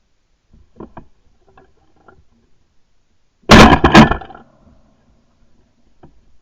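Shotgun firing: one very loud, sudden blast about three and a half seconds in that dies away within about a second, after a few faint clicks of gun handling.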